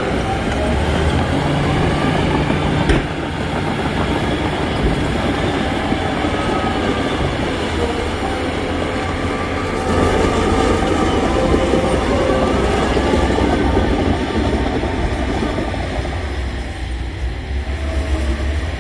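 Crawler bulldozer at work: the diesel engine running steadily under load while the steel tracks clank and squeal. A single sharp knock sounds about three seconds in.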